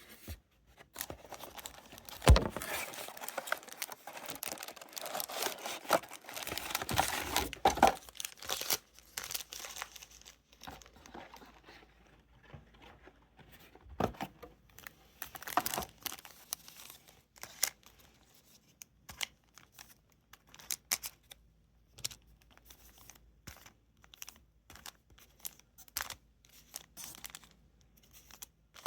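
Trading-card pack wrappers and packaging crinkling and tearing as packs are handled and opened, dense and continuous for the first ten seconds or so, then scattered rustles and clicks.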